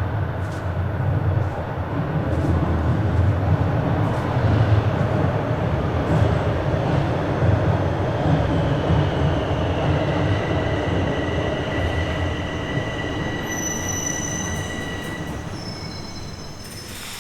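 Bombardier Toronto Rocket subway train running through the tunnel with a steady low rumble. About halfway through, high steel-wheel squeals set in, and the noise fades as the train slows.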